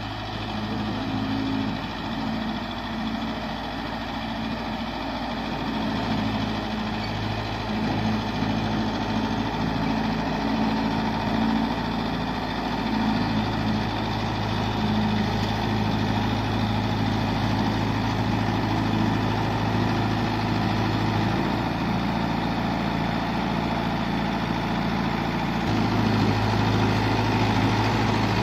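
Mahindra Yuvo Tech 575 DI tractor's diesel engine running steadily at low revs.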